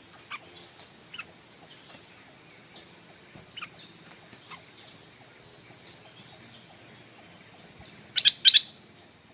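Stripe-throated bulbul calling: a few short, sharp notes in the first few seconds, then a loud quick burst of notes about eight seconds in.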